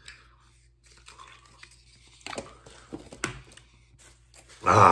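A man eating a sub sandwich: quiet chewing with a few short wet crunching sounds, then a short loud burst of his voice near the end.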